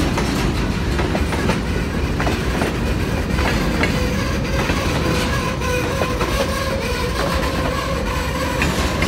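Steel wheels of empty bulkhead flatcars at the tail of a freight train, clicking over rail joints and rumbling as the last car passes and the train moves off. A faint steady ringing tone comes in about halfway.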